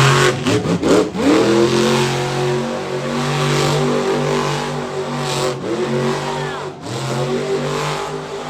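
Monster truck engine revving hard under throttle. The pitch drops and climbs again about a second in and twice more near the end, as the throttle is lifted and reapplied.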